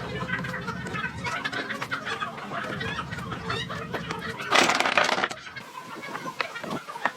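Chickens clucking, with a loud harsh rasping burst lasting under a second about four and a half seconds in.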